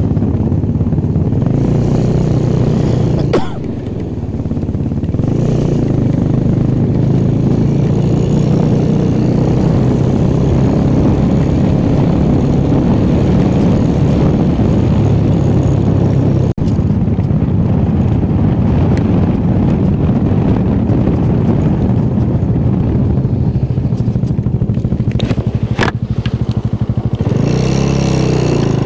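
Motorcycle engine running steadily under way, with rushing ride noise; the engine pitch shifts up and down near the end as the revs change.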